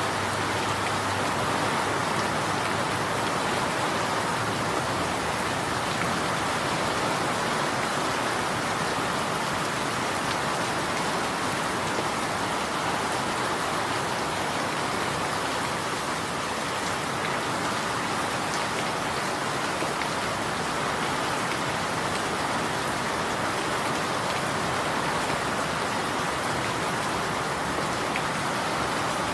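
Steady rain falling on surfaces, an even hiss with no thunder or distinct drips standing out.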